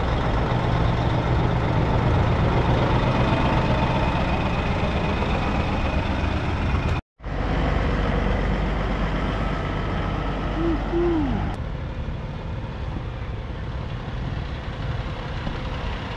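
Heavy diesel truck engine running steadily. The sound drops out completely for a moment about seven seconds in.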